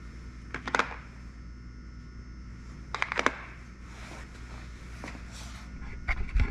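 Four short bursts of light clicks and rattles, like small hard objects being handled, over a steady low hum in a small room.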